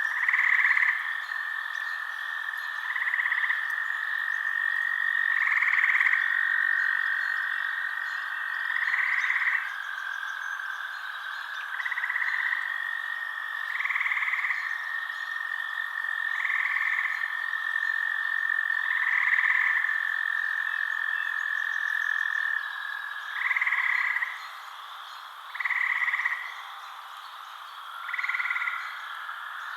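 Frogs calling in a night chorus: a call about every two to three seconds over a steady high trill.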